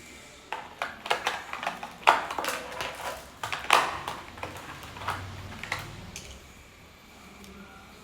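Art-kit supplies and their hard cases clicking and clattering as they are handled: a quick, irregular run of taps lasting about five seconds, the loudest about two and four seconds in.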